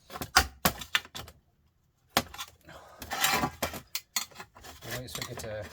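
Metal parts of a dismantled sandwich maker being handled: sharp clinks and clatter, a short pause, then more clattering and scraping.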